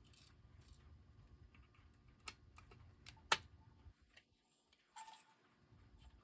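Faint, sparse clicks and taps from hands working the gear train of a Seth Thomas electric clock movement, trying to turn a stuck wheel, with two sharper clicks about two and three seconds in. The gears don't budge.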